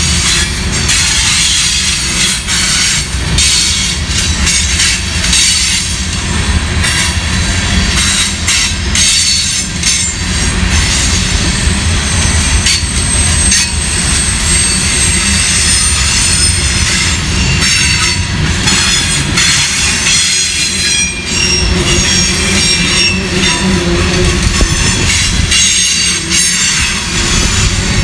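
Freight train of covered hopper grain cars rolling past close by: a steady rumble of steel wheels on rail, with frequent clicks of wheels over rail joints and a high-pitched wheel squeal drawn out for several seconds midway.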